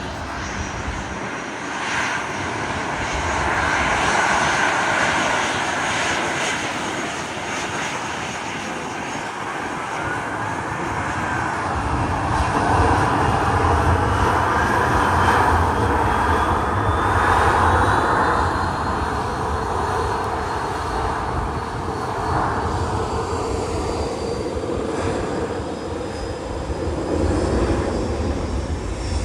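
Jet airliner's engines, a continuous rumble that grows stronger about twelve seconds in, with a thin whine rising slowly in pitch through the second half.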